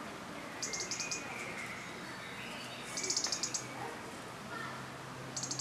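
Small songbird's high, fast trill of rapidly repeated notes, heard three times, loudest in the middle, with fainter thin whistled calls between the trills.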